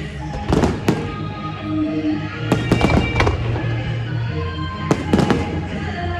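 Fireworks going off in three clusters of sharp bangs and crackles, roughly two seconds apart, over music with sustained notes.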